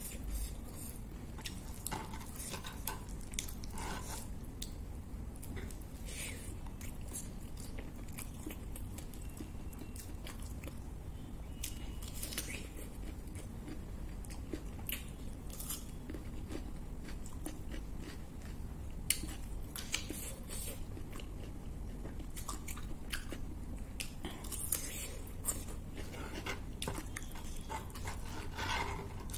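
A person biting and chewing crunchy food, cucumber and papad crumbs, with scattered crisp crunches over a steady low hum.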